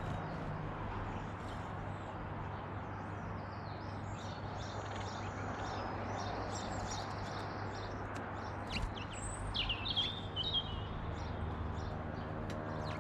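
Small garden birds chirping and singing, with a quicker run of sharp chirps and short falling notes about two-thirds of the way in, over a steady background hum.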